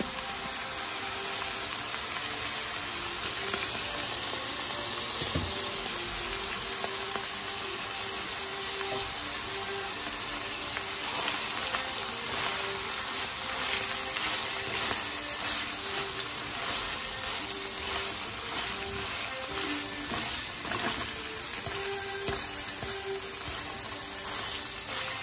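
Shredded bamboo shoots and pork sizzling as they are stir-fried in a wok, with a steady hiss and a thicker crackle from about eleven seconds on as they are tossed with chopsticks. Light background music plays along.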